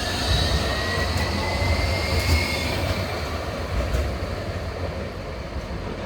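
A rail vehicle moving off: the whine of its traction drive rises in pitch and levels off about halfway through, over a steady low rumble of wheels on the track.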